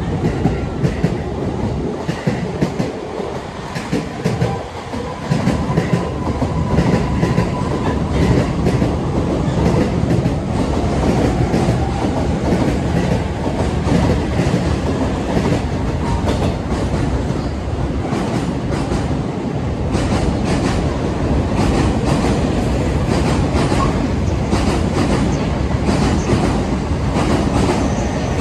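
Two electric commuter trains, an E231 series and an E233 series, departing side by side and running past at close range: continuous wheel and rail noise with rapid clacking, getting louder a few seconds in as they gather speed.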